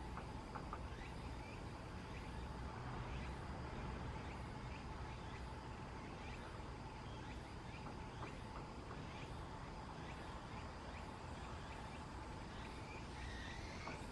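Faint outdoor ambience: a steady low rumble and a thin steady hum, with a few short, thin bird chirps, one curving call near the end.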